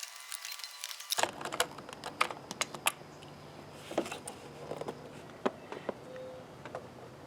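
Small hand tools working a coil-pack hold-down bolt: quick ratchet clicking for about the first second, then scattered light metallic clicks and taps of wrench and socket on the bolt.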